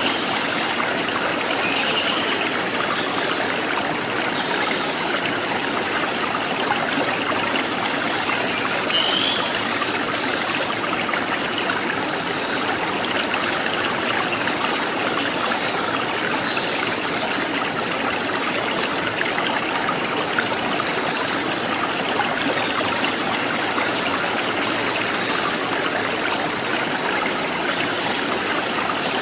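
Forest stream splashing and trickling steadily, with a few short, faint bird chirps, the clearest about two seconds in and about nine seconds in.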